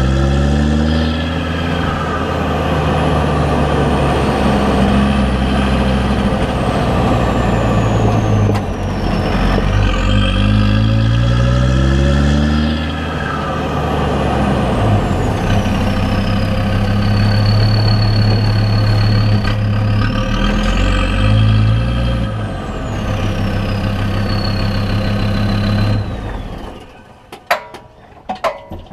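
Land Rover Discovery 2 TD5 2.5-litre five-cylinder turbodiesel heard from under the chassis while driving, the engine note climbing repeatedly as it pulls through the gears, with a high turbo whistle gliding up and down above it. Near the end the engine sound drops away and a few sharp clicks follow.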